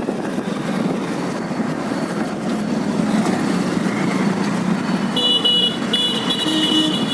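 Steady road and engine noise of a moving vehicle, with a vehicle horn honking twice near the end, the second blast longer.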